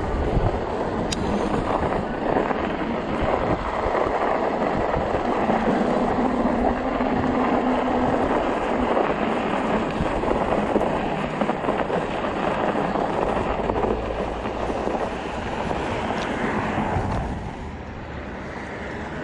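Fat tires of an electric bike rolling over packed, plowed snow, with wind buffeting the microphone. The noise is steady and eases off near the end.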